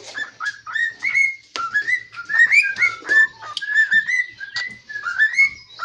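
Cockatiel whistling a quick string of short chirped notes, each sliding up or down in pitch, a few a second without a break.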